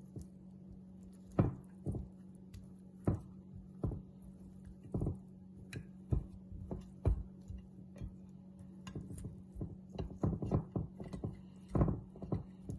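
Boiled potatoes being turned over by hand in a dish: irregular soft knocks and taps, sparse at first and coming several a second near the end. A steady low hum runs underneath.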